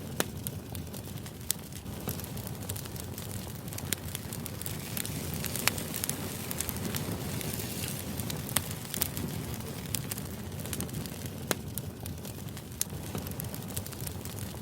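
Crackling fire ambience used as background noise: a steady low rush with sharp pops scattered irregularly through it.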